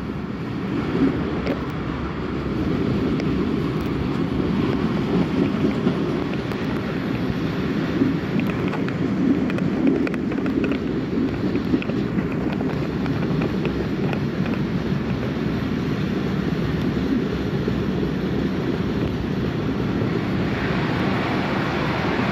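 Passenger train carriage running at speed: a steady rumble of wheels on rails with wind rushing over the microphone, and a few sharp clacks in the middle.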